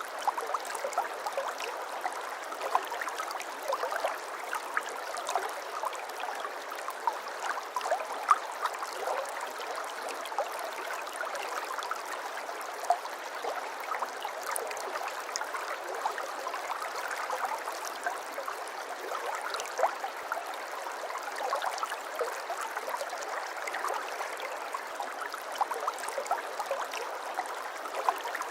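Water flowing steadily in a shallow stream, babbling with a constant mass of small trickles and splashes.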